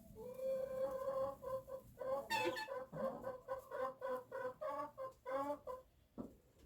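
Chickens clucking in a run of short repeated calls, about three a second, with one louder, higher call about two seconds in; the calls die away near the end.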